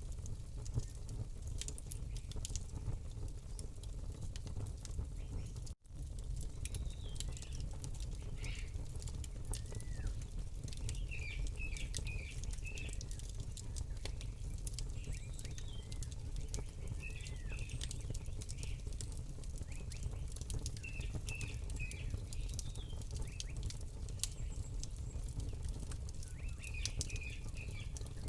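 Campfire crackling with sharp irregular pops over a steady low rumble, while small birds chirp in short repeated runs. The sound drops out for an instant about six seconds in.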